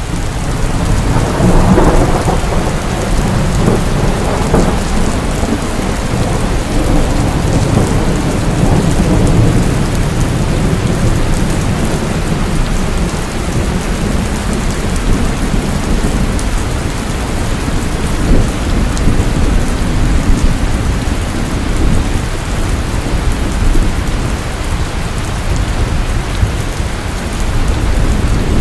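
Steady heavy rain with a long rolling rumble of thunder that swells about a second in and rolls on through the downpour.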